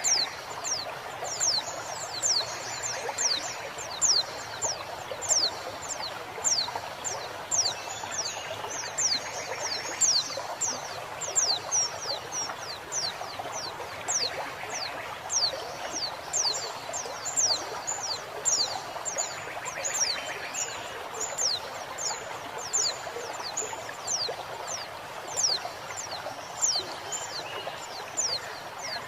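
Female white-eye (pleci) giving a long series of short, high call notes, each falling in pitch, about one to two a second, over the steady rush of flowing water.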